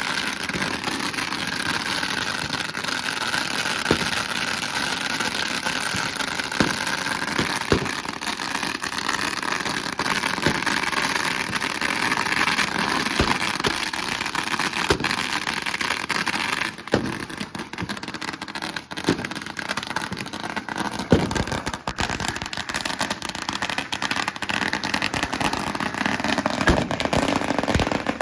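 Strings of firecrackers going off in a dense, continuous crackle of rapid bangs, thinning into more separate cracks a little after halfway.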